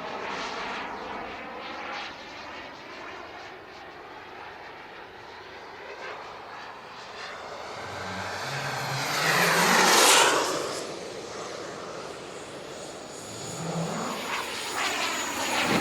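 Turbine engines of large radio-controlled model jets (Elite Aerosports Havoc and Havoc SS) running in flight, with a steady whooshing whine. The sound swells to a loud flyby about ten seconds in, then fades, and builds again near the end.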